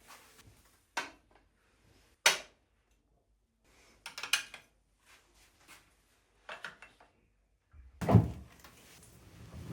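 Household handling sounds: a scattering of short knocks and clicks, then a heavier, deeper thump about eight seconds in, like a door, drawer or cupboard being shut.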